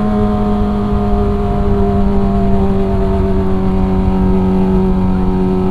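Kawasaki ZX-25R's 250 cc inline-four engine running at a steady high pitch while the bike cruises, with a low rushing noise underneath.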